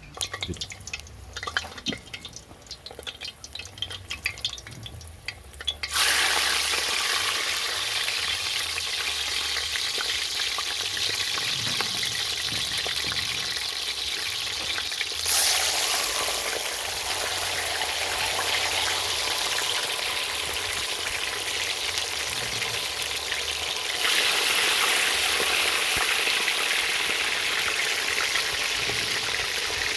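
Food frying in hot oil in a pan: light, scattered crackling at first, then a dense, steady sizzle that comes on suddenly about six seconds in and jumps louder again about halfway through and near 24 seconds.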